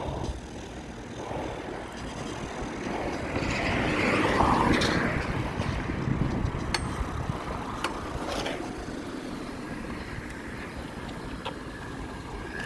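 Road traffic: a vehicle passes, loudest about four to five seconds in, over steady wind and road noise.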